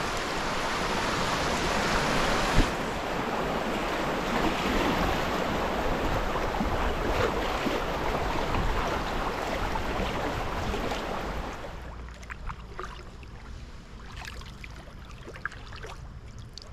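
River water rushing through a shallow riffle around a kayak, a loud steady rush that drops off suddenly about twelve seconds in. In the quieter stretch that follows come light splashes and drips from paddle strokes.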